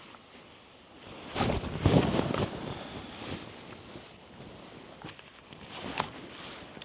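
A gust of wind buffeting the microphone, loudest for about a second starting a second and a half in, then easing off. A short sharp click near the end.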